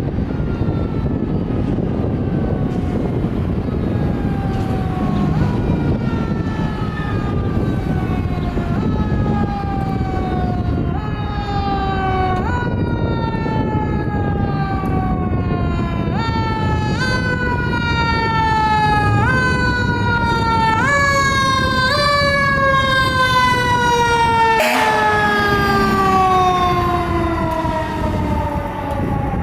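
Fire engine's mechanical siren, typical of a Federal Q, being pulsed: its pitch falls, is kicked back up every second or two so that it climbs overall, then winds down in one long fall near the end. The truck's engine and road noise run underneath, and there is one short sharp noise about 25 seconds in.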